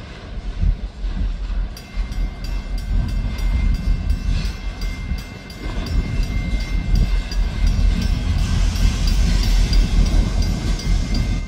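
Diesel freight train rumbling past at a grade crossing. From about two seconds in, a crossing bell rings above it in quick, even strikes.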